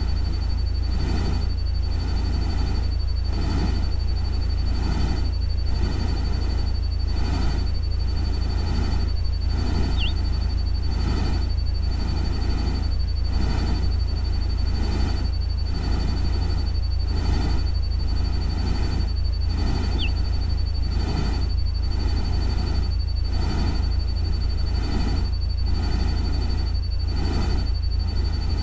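Artificial nature-sound soundscape: a steady low rumble under an evenly pulsing, rain-like hiss, with a thin steady high tone like crickets. A single short falling chirp, like a distant bird, comes about every ten seconds.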